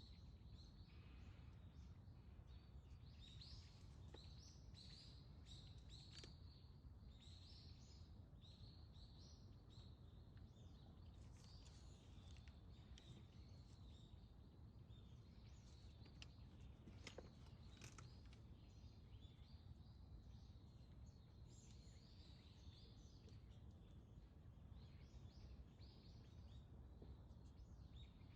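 Faint chirps and calls of small birds, many short notes throughout, over a steady low rumble of background noise; a couple of sharp clicks about two-thirds of the way through.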